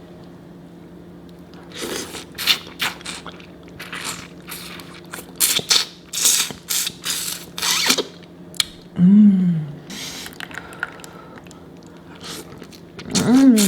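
Close-mic'd sounds of peeling and eating boiled shrimp: a run of crackling, smacking noises, then a short hummed 'mmm' a little after nine seconds in.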